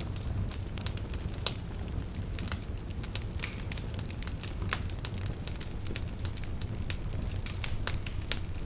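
Campfire burning, wood crackling and popping in irregular sharp snaps over a low steady rumble of the flames, with one louder pop about one and a half seconds in.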